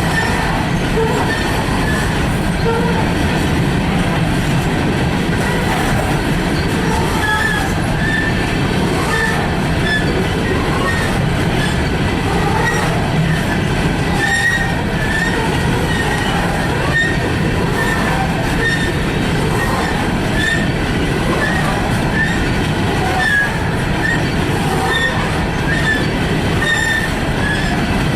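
A freight train rolling past, steady and loud, with short high-pitched wheel squeals again and again.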